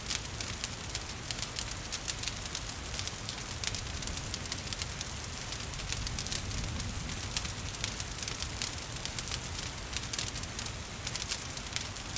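Wood fire crackling and popping in a fireplace, many small sharp pops a second, over a steady hiss of gentle rain.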